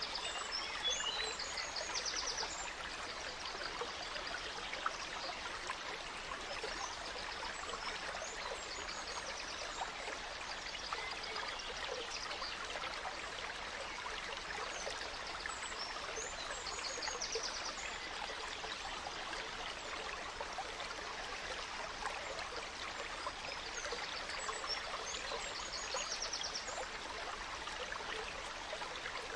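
A gentle stream trickling steadily. A songbird sings short high phrases ending in a rapid trill, several times over, roughly every nine seconds.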